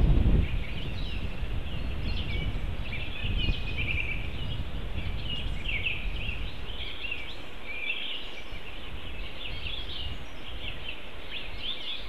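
Several songbirds singing at once: many short chirps and trills overlapping without a break. A low rumble fades out in the first half second.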